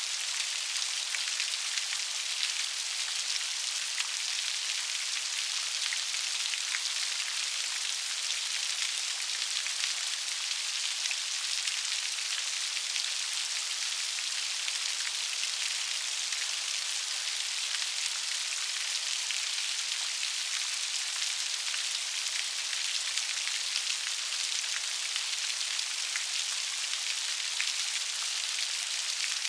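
Steady rain: an even hiss with many small drop ticks, with no thunder and no let-up.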